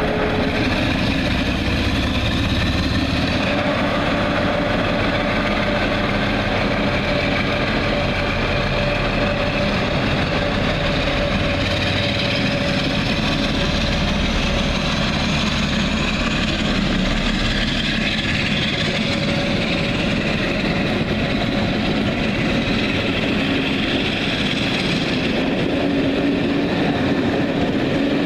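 London Underground D78 Stock District line train running, heard from on board: a steady rumble, with the traction motors whining and rising in pitch as it picks up speed, twice.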